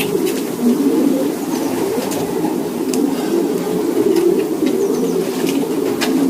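Racing pigeons cooing together, a dense continuous murmur of many birds, with a few short sharp taps here and there.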